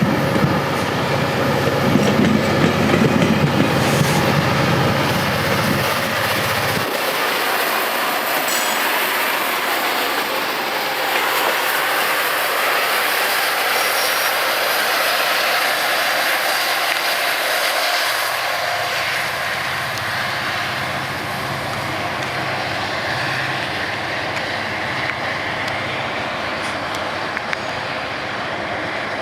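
Passenger train of bilevel coaches rolling past slowly as it pulls away, its wheels clattering over the rail joints with some wheel squeal. A low rumble drops out about seven seconds in and returns about two-thirds of the way through.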